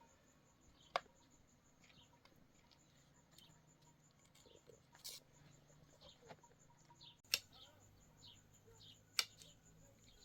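Faint bird chirping, many short falling chirps repeating throughout, with three sharp clicks: one about a second in and two near the end.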